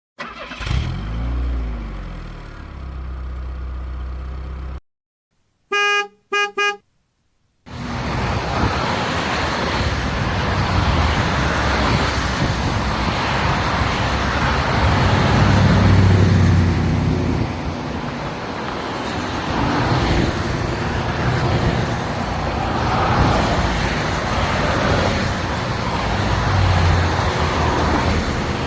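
A car driving on a highway, heard as steady engine and road noise from about eight seconds in. Before it comes a pitched sound that rises and falls and then cuts off, and then, after a short silence, three quick car-horn toots.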